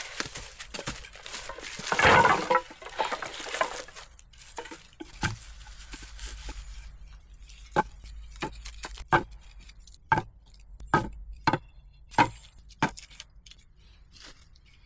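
A loud crunching, scraping rustle about two seconds in, then a run of about eight sharp knocks, irregularly spaced half a second to a second apart.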